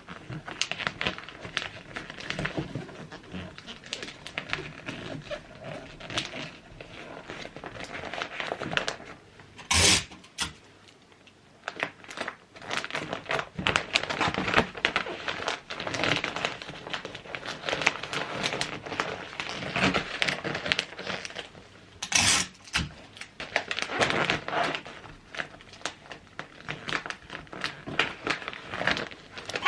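Wrapping paper crinkling and rustling as presents are wrapped by hand, with irregular clicks. Two short, sharp noises stand out, one about ten seconds in and another about twenty-two seconds in.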